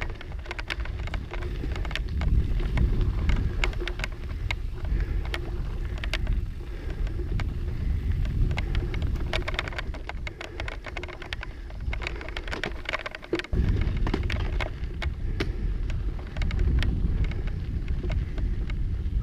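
Mountain bike ride over a rough trail: wind buffets the microphone with a constant low rumble, and a dense run of clicks and rattles comes from the tyres on rock and gravel and from the bike itself. The noise drops out briefly about two-thirds of the way through.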